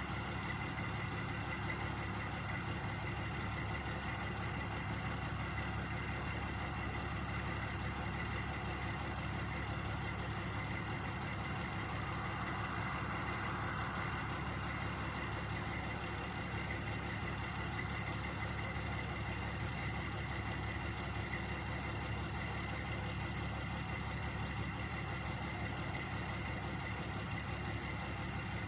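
Two truck engines idling steadily in a continuous drone, with a constant high whine over the low engine hum.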